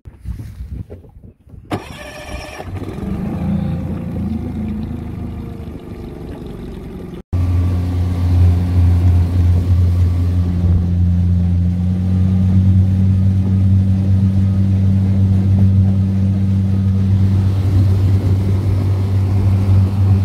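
Tohatsu 15 hp four-stroke outboard motor running, in two cuts: an uneven stretch with water and wind noise, then after a sudden cut a steady, loud engine hum whose pitch rises slightly a few seconds later.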